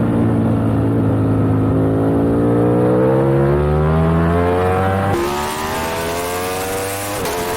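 Superbike engine heard onboard at racing speed, its pitch climbing steadily as it accelerates hard. Quick upshifts about five seconds in and again about seven seconds in make the pitch drop sharply, with wind rush growing louder after the first shift.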